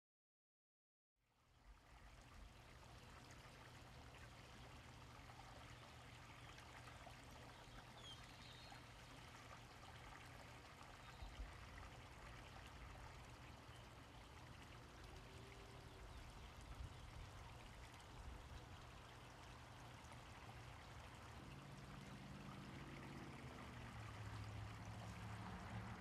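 Dead silence for about a second, then a faint steady rushing noise fades in and holds, like running water; a faint low hum joins near the end.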